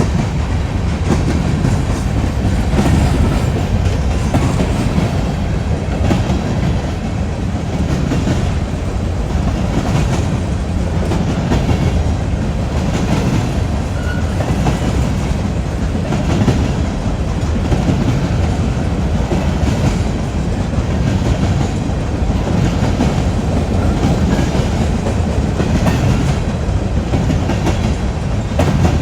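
Train rolling past at close range: a steady rumble of railcars, with wheels clacking over rail joints at a regular beat.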